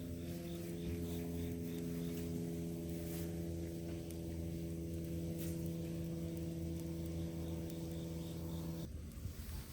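A steady low hum made of several held tones, which cuts off about nine seconds in, with faint high ticks repeating about two or three times a second over it.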